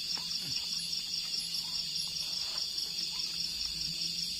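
A chorus of crickets chirring steadily in a high, fast-pulsing band, with a faint low hum underneath.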